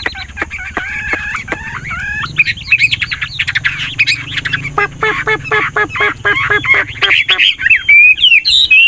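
Chinese hwamei singing a fast, varied song of whistled notes and glides, changing phrase continually, with a quick run of repeated notes about halfway through.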